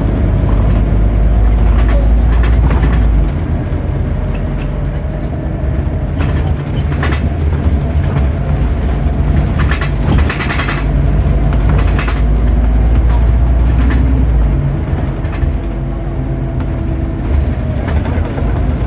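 Scania CN230UB Omnicity bus engine running in a steady low drone, pulling harder for the first few seconds and again about twelve seconds in, then easing off, with a faint steady whine above it and scattered rattles and knocks.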